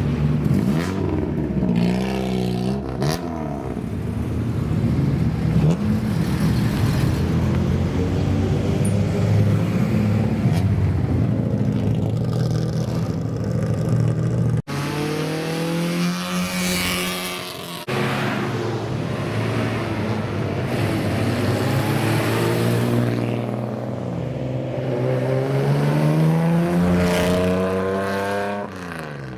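Modified car exhausts revving and driving past, engine pitch rising and falling repeatedly as the throttle is blipped.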